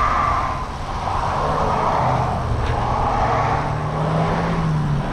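Road traffic close by: a motor vehicle's engine hum with tyre and road noise, the hum rising a little in pitch over the last couple of seconds.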